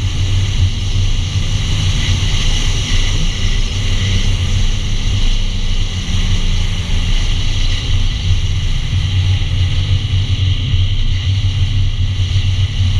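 Nissan 350Z's V6 engine running at steady revs under a constant low rumble of car noise, picked up by a camera mounted on the car's body.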